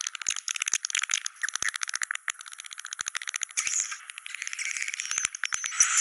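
Swiftlets calling in a rapid rattle of dry clicks, about ten a second. Twittering chirps thicken in among the clicks after about three and a half seconds.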